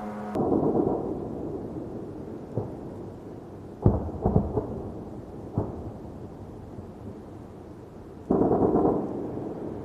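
Blasts from an air attack: a rumbling boom just after the start, a sharp bang about four seconds in followed by crackling, and another heavy rumbling blast a little past eight seconds.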